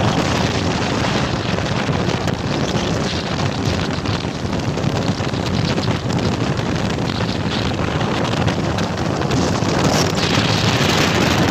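Heavy wind buffeting the microphone on a moving motorbike, with the bike's engine noise mixed in. The sound is a loud, steady rush.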